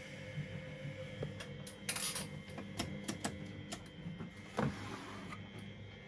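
Siemens Extraklasse XLs 140 washing machine running: a steady motor hum with scattered clicks, a brief clatter about two seconds in and a louder clunk about four and a half seconds in.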